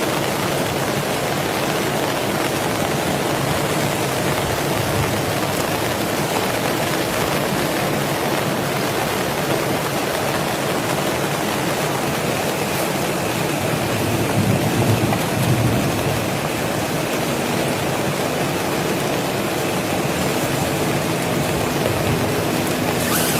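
Heavy rain falling steadily, an even wash of water noise, with a low rumble swelling briefly about fifteen seconds in.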